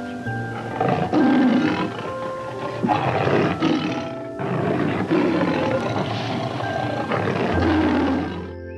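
Rough animal calls repeating about once a second, over background music with steady held notes.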